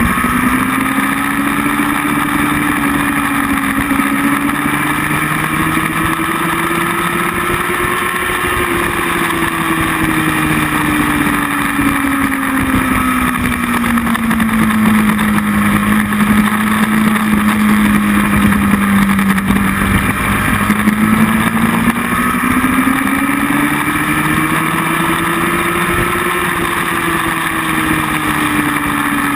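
Motorcycle engine running at speed, its note rising slowly, falling, then rising and falling again, under a constant rush of wind on the camera microphone.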